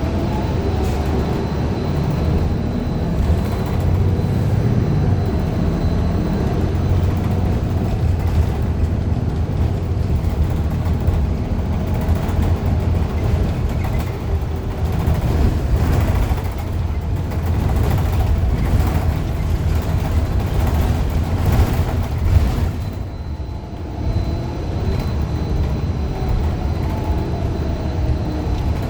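Interior ride noise of a 2015 Gillig Low Floor 40-foot CNG bus under way: a steady low rumble from its Cummins Westport ISL G natural-gas engine and drivetrain, easing briefly about three quarters of the way through. The uploader reports the bus's Allison B400R transmission as faulty.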